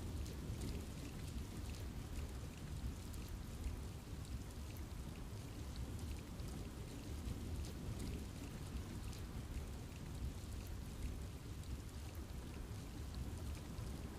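Steady rain falling in a forest, a continuous low rush with many fine drops pattering throughout.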